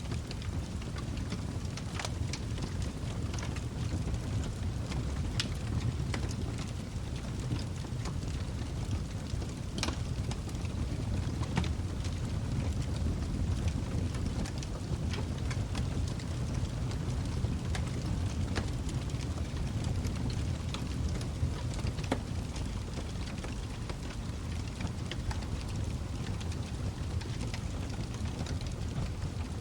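Log fire burning with a steady low roar and frequent sharp crackles and pops, irregularly spaced.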